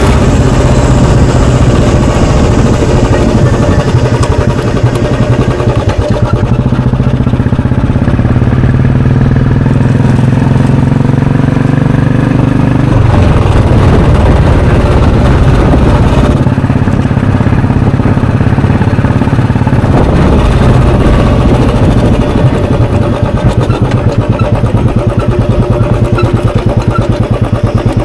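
2021 Royal Enfield Bullet 350's single-cylinder four-stroke engine and exhaust running under way. The pitch climbs for several seconds, then drops sharply about halfway through as the revs fall. Near the end the exhaust beats turn slow and separate, the engine at low revs.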